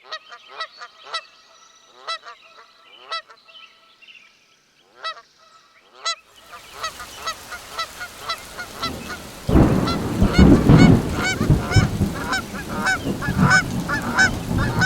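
Repeated short honking bird calls, coming thicker as the clip goes on. About six seconds in a steady hiss like rain joins them, and a few seconds later a loud, low rumble comes in under the calls.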